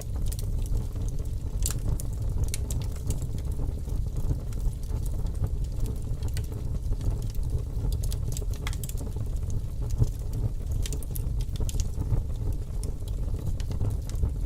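Fire crackling: a steady low rumble with irregular sharp pops and crackles, one louder pop about ten seconds in.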